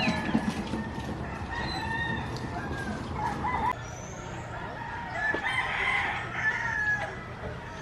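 Roosters crowing and chickens clucking, several calls overlapping, busiest a little past the middle.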